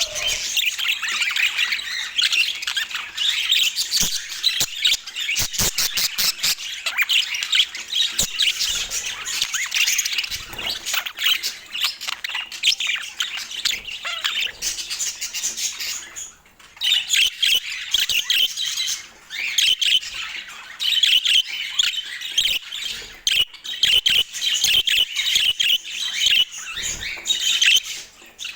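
Budgerigars chattering and warbling, with a run of quick clicks about five seconds in and a short lull about halfway through.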